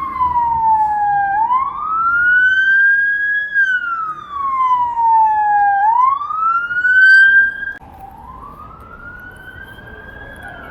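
Emergency vehicle siren wailing, its pitch sliding slowly down and back up about every four to five seconds. It drops abruptly much quieter about eight seconds in and carries on faintly.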